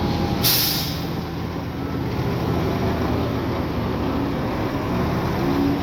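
Heavy diesel engine of earthmoving machinery running steadily, with a short burst of hiss about half a second in.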